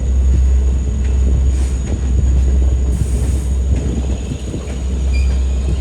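Long Island Rail Road test train of DM30AC diesel locomotives and C3 coaches rolling slowly past while pulling into a station siding to stop: a steady low rumble of engines and wheels on rail.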